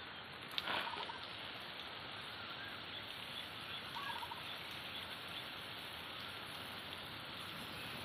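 A bird calls twice, each a quick run of notes: a louder call about a second in and a fainter one at four seconds, over a steady hiss.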